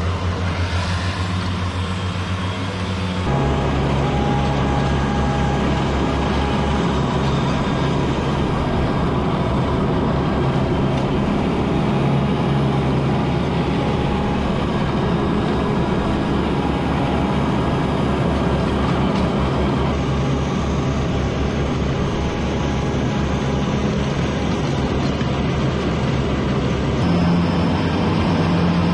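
A vehicle engine running steadily. Its note drops about three seconds in and rises again near the end.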